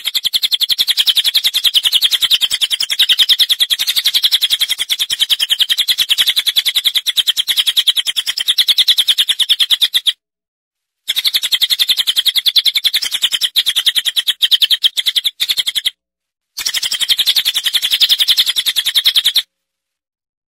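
A bird chirping very fast in an even, unbroken string of high notes, in three long runs: about ten seconds, then about five, then about three, with brief pauses between them.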